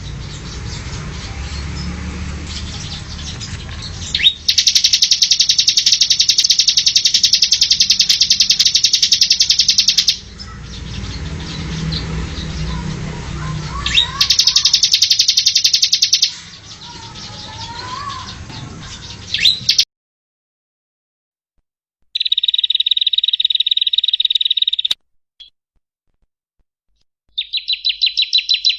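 Small songbirds singing rapid, high chattering trills in bursts of a few seconds each, with a low background hum between them. About two-thirds of the way through the sound cuts off abruptly, and then a different, narrower trill comes in twice.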